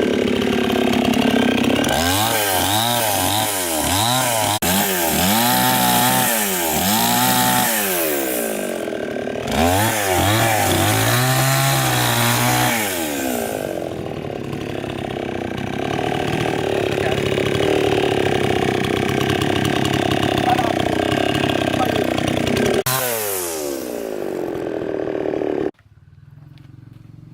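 Two-stroke chainsaw running and cutting wood, its engine revved up and down about once a second, then held steadier under load. It stops suddenly near the end.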